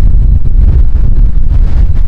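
Strong wind buffeting the microphone: a loud, steady, rumbling roar that fills the sound.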